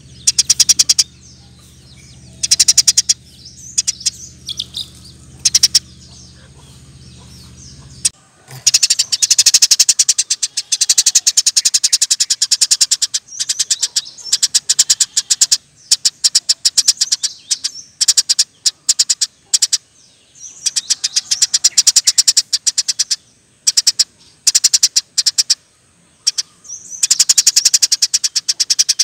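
Eurasian tree sparrow chirping in rapid-fire bursts, each a fast chattering string of high notes lasting one to three seconds, with short pauses between. A low hum underneath cuts out about eight seconds in.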